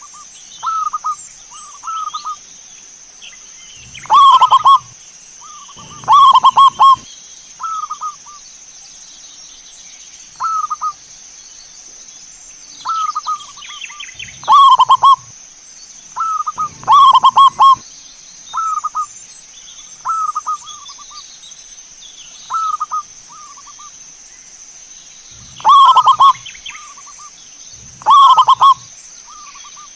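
Zebra dove (perkutut) cooing: a string of short, rapid, stuttering coos repeated every second or two, with six much louder phrases that hit full level. A steady faint high-pitched hiss runs underneath.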